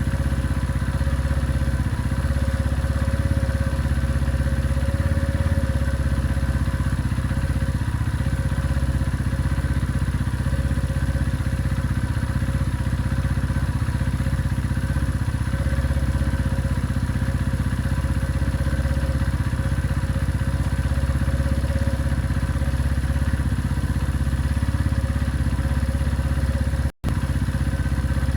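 A motorcycle engine idling steadily, with an even low rumble that breaks off for an instant near the end and then carries on unchanged.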